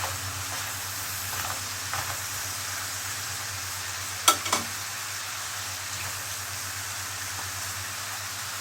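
Mixed seafood sizzling in hot oil in a frying pan as it is stirred, a steady hiss. Two sharp knocks, a utensil striking the pan, come about halfway through.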